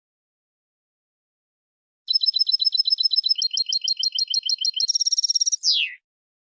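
European goldfinch song phrase: about two seconds in, a run of quick repeated high notes, about ten a second, then a short buzzy trill and a falling note to close.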